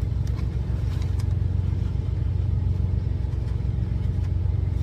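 Idling truck engine: a steady low rumble with an even, regular pulse, with a few faint clicks over it.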